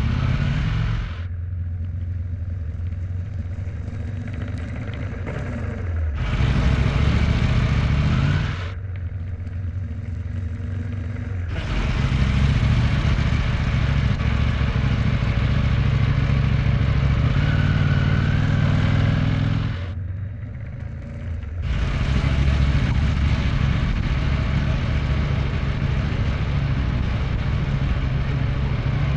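Motorcycle engine running under way on the road, a steady low hum, with loud wind rush on the microphone that drops away briefly a few times and comes back.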